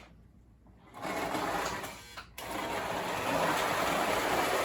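Toy electric train locomotive with a later Lionel motor running on the track, a steady motor whirr. It is weak for about the first second, picks up, drops out briefly about two seconds in, then runs steadily: stalls the owner puts down to dirty track.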